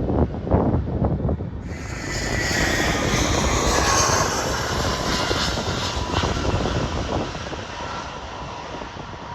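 An Airbus A320-family jet airliner on landing approach passes close. Its engine rush swells in after wind buffets the microphone, peaks with a falling whine as it goes by, and then fades.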